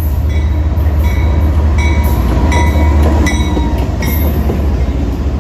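CSX freight train's diesel locomotives passing close by, a heavy steady low engine rumble that is loudest about three seconds in, with repeated short metallic clicks and brief squeaks from the wheels on the rails.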